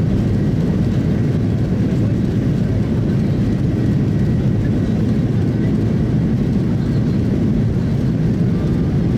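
Steady low rumble of an airliner's engines and airflow heard from inside the passenger cabin, shortly after takeoff.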